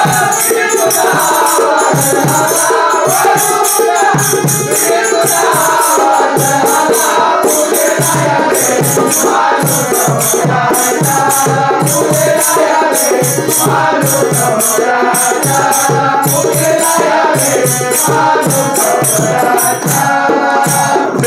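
Instrumental interlude of a Marathi bhajan: a harmonium melody over an even beat of dholki drum and jingling hand percussion.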